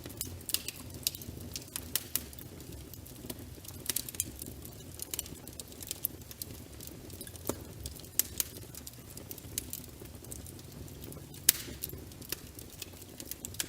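Wood fire crackling in a fireplace: irregular sharp pops and snaps over a low steady rumble of the flames, with one louder pop about eleven and a half seconds in.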